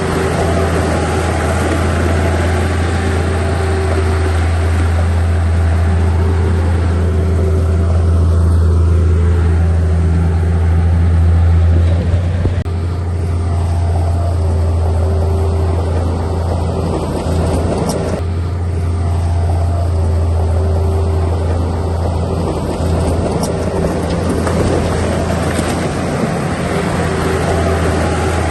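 Heavy diesel engine of a construction machine running steadily, a continuous low drone.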